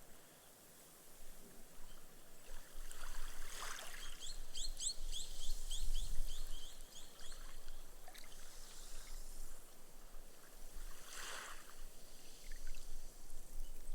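Small, gentle waves washing onto a sandy beach and soaking into the sand with a soft fizz of foam, swelling a little after three seconds and again around eleven seconds. About four seconds in, a bird calls a quick run of short high notes, about four a second, for some three seconds.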